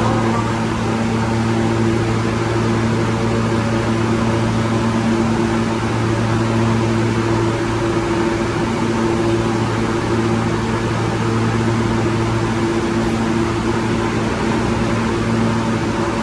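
New York City subway L train (R143 or R160A car) at the station, giving a loud, steady hum with a rushing noise and no change in pitch or level.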